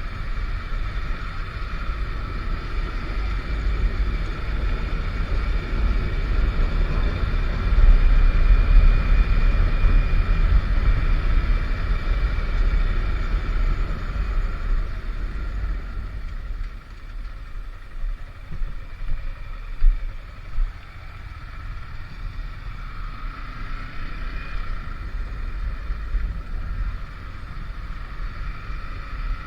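A motorcycle on the move, with wind buffeting the microphone in a heavy low rumble over a steady engine drone. The sound drops back somewhat about sixteen seconds in, and a short rise in pitch follows a few seconds later.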